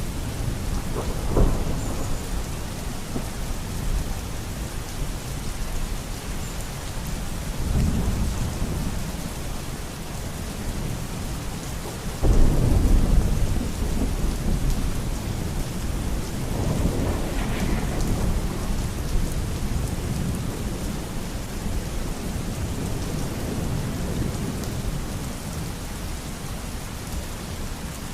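Steady heavy rain with thunder rolling several times. The loudest is a clap that breaks suddenly about twelve seconds in and rumbles on for a few seconds.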